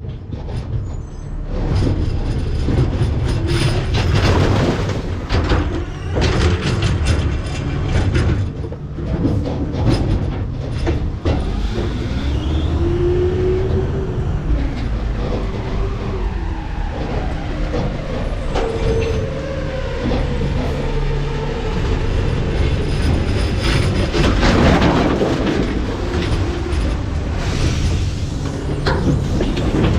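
McNeilus ZR rear-loader garbage truck's hopper taking in heavy trash with loud crashing and clattering, over the truck's steady engine rumble. Partway through, the hydraulic packer cycles with a whine that rises and falls as it compacts the load.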